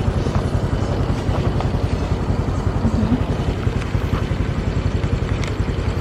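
Motor scooter riding through traffic: engine running under a dense, choppy low rumble of road and wind noise.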